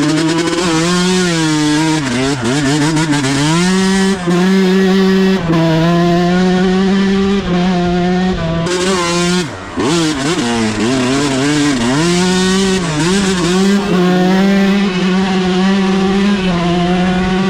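Off-road vehicle engine running hard at high revs, its pitch held mostly steady and dropping then climbing back up three times as the throttle is let off and reopened.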